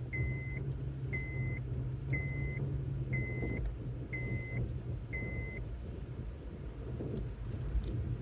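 Car's seatbelt warning chime: six evenly spaced high beeps, about one a second, that then stop. Underneath, the steady rumble of the car driving, heard from inside the cabin.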